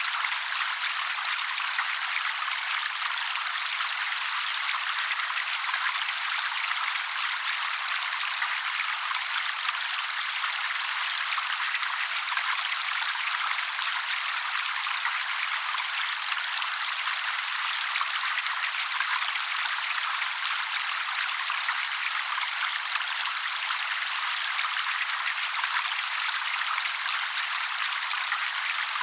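Steady trickling water with no bass, a thin even hiss of splashing, unchanging throughout.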